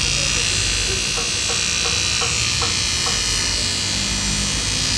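A steady, high-pitched electric buzz with a hiss from a tool at work on a broken alloy wheel. Light ticks come about three times a second in the first few seconds.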